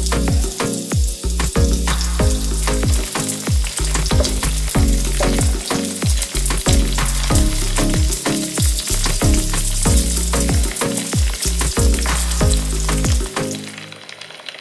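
Small dried fish frying in oil in a pan, a steady sizzle as a wooden spatula stirs them, over background music with a regular beat. The sizzle fades near the end.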